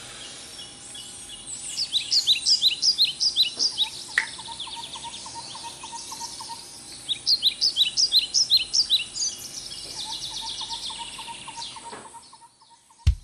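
Birds singing: two bursts of quick, high, falling notes, each followed by a lower run of rapid repeated notes. The song fades about a second before the end, and a sharp click comes right at the end.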